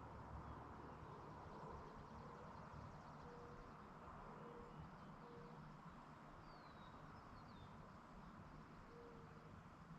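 Quiet evening countryside with faint, distant bird calls: a few thin, high, falling chirps, and a series of short low notes repeating every second or so, over a soft low rumble.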